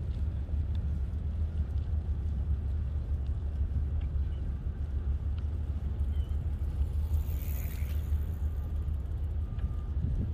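Steady low rumble of a bicycle riding along a paved path: rolling noise and wind on the microphone, with a brief faint hiss about seven seconds in.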